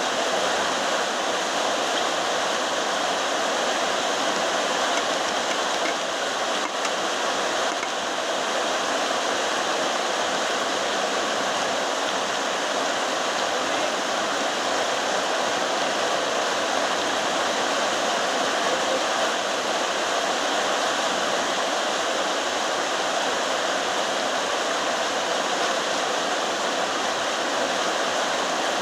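Very heavy rain falling steadily as one dense, even wash of noise.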